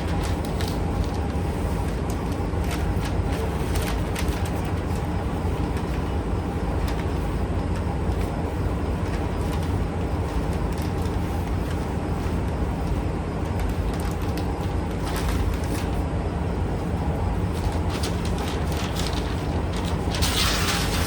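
Steady mechanical drone with a low hum, and a short burst of hiss near the end.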